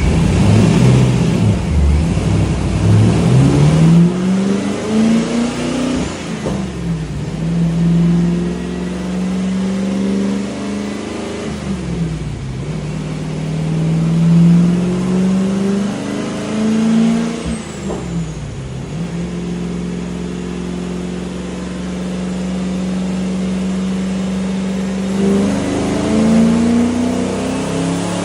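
Twin-turbo LS1 V8 of a 2001 Pontiac Trans Am WS6 running on a dyno. Its revs climb over the first few seconds, then hold mostly steady with two brief dips and swells, and climb again near the end.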